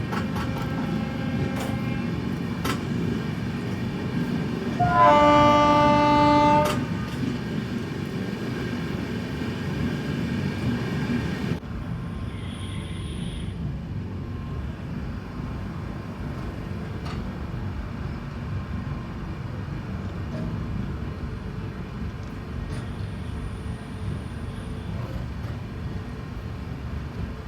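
Passenger train running with a steady rumble. About five seconds in, the locomotive horn sounds one loud blast lasting under two seconds.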